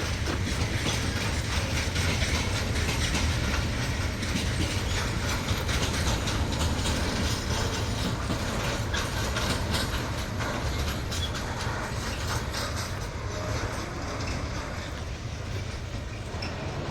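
Freight train passing at speed, its wagon wheels clattering rhythmically over the rail joints, the sound slowly easing off near the end.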